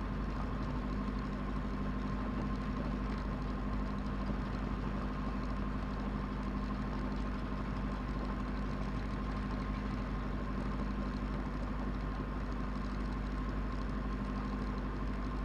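Diesel engine of a Cessna 172 idling steadily, with an unchanging hum and a fixed high tone over it.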